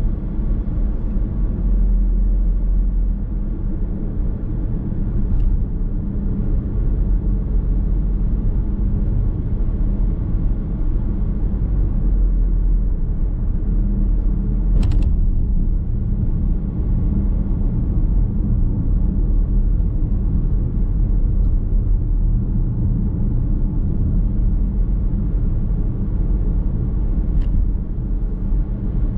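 Car driving at a steady speed, heard from inside the cabin: a continuous low rumble of tyre and road noise. A few brief clicks or knocks stand out, the sharpest about halfway through.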